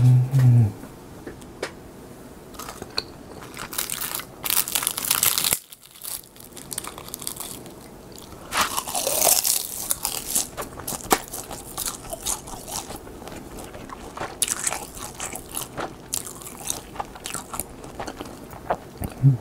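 Close-miked crunching and chewing of crisp roasted seaweed (gim) sheets, with louder bursts of crackly crunching about four seconds in and again around nine seconds.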